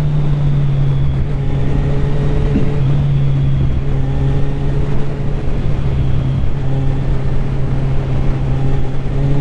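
Kawasaki Z1000's inline-four engine, fitted with Akrapovič silencers, running at steady revs while the bike is ridden, with wind noise rushing over the microphone.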